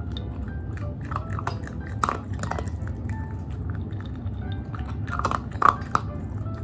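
A Bichon Frise crunching and chewing dry kibble, with irregular crisp crunches. The loudest crunches come about two seconds in and just past five seconds in.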